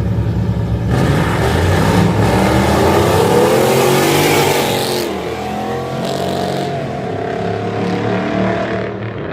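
Vehicle engine accelerating hard at full throttle in a street race. The engine pitch climbs, drops sharply about five seconds in, then climbs again, over a low rumble.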